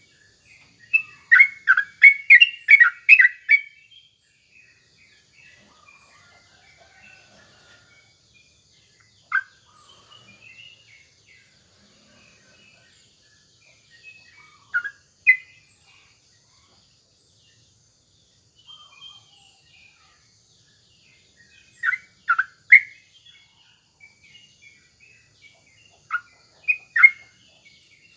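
Yellow-vented bulbul (trucukan) singing: a rapid run of about a dozen bubbling notes about a second in, then short bursts of two or three notes every few seconds, with faint twittering between.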